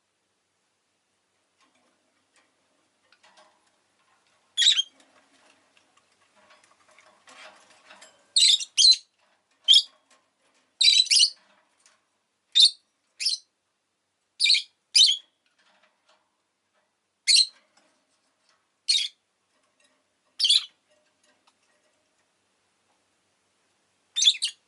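Rosy-faced lovebird giving short, sharp, high chirps, one at a time or in quick pairs, with pauses of a second or more between them. There is a faint rustle about seven seconds in.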